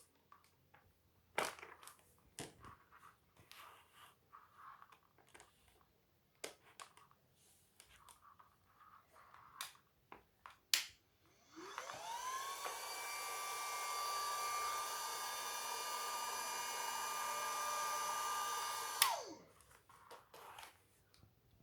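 A homemade chips-can vacuum cleaner's small 12-volt fan motor switching on, spinning up with a rising whine, running steadily for about seven seconds, then falling in pitch and stopping. Before it starts there are scattered clicks and knocks of handling.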